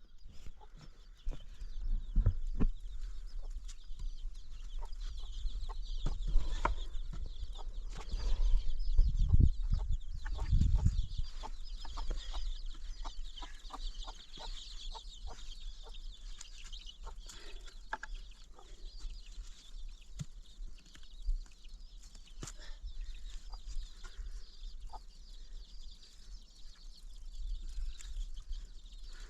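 Farm animal calls over a steady high hiss, with many scattered clicks and knocks and a stretch of heavy low rumbling about nine to eleven seconds in.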